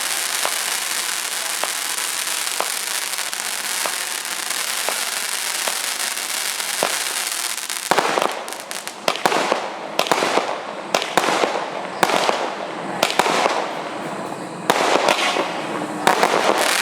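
A 64-shot firework cake firing. For about eight seconds there is a steady hissing crackle with faint regular pops. After that comes a run of separate bangs, about one or two a second, each trailing off in a hiss.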